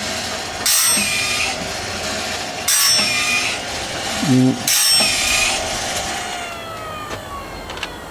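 Electric bandsaw-blade sharpener grinding the teeth of a sawmill band blade: a hissing grind about every two seconds, three times, over the steady run of its motor. After about six seconds the grinding stops and the pitch falls as the machine hangs up, with wood stuck to the blade.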